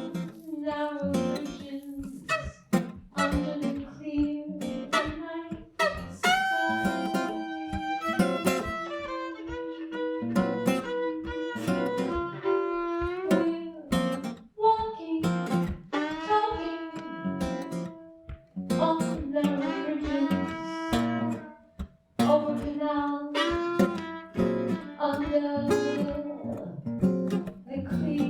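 Music: an acoustic guitar picking a run of notes, with held tones sounding among them.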